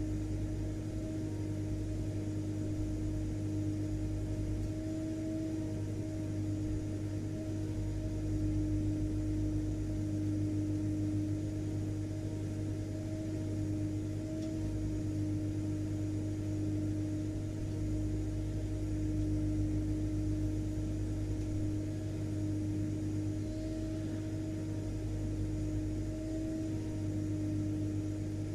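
Vacuum cleaner motor running steadily, a constant low drone with a held mid-pitched hum over it and no change in speed.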